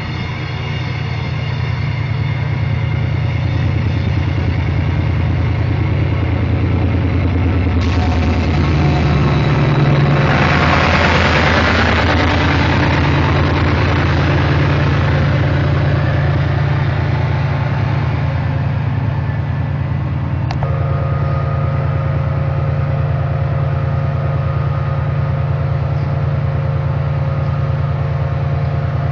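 Class 68 diesel-electric locomotive's Caterpillar V16 engine working hard as it powers up to pull away. The heavy low drone builds over the first seconds and peaks about ten seconds in with a harsh rush of exhaust noise, then settles to steady loud running, with a steady whine joining about twenty seconds in.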